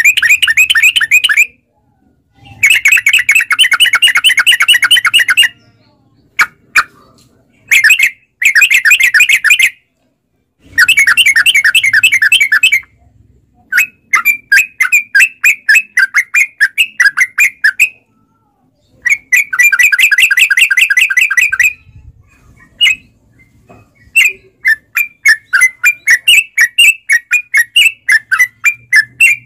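Yellow-vented bulbul (trucuk) singing its loud, rapid chattering song: bursts of fast-repeated notes in phrases of one to three seconds with short pauses between, ending in a longer run of quick notes.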